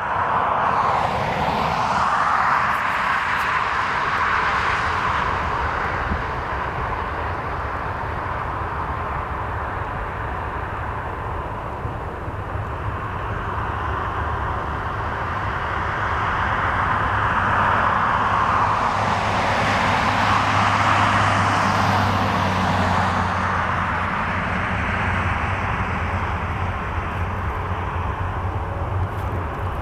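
Jet engine noise of a departing Boeing 737 airliner: a steady rushing roar that swells and fades twice, with a low hum underneath.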